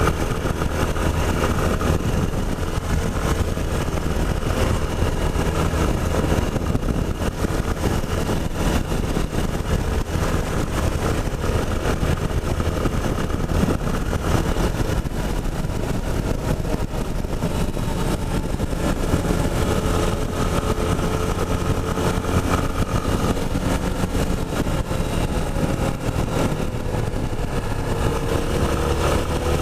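Yamaha Ténéré 250's single-cylinder four-stroke engine running steadily while the bike is ridden, its pitch shifting slightly about two-thirds of the way through.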